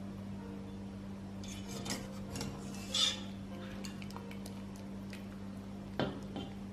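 Dishes and cutlery clinking as they are handled: a run of clinks with the loudest about three seconds in, and a sharp knock about six seconds in, over a steady low hum.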